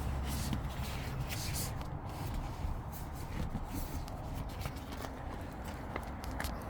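Scattered rustling and light footsteps, a person moving about, over a low steady rumble.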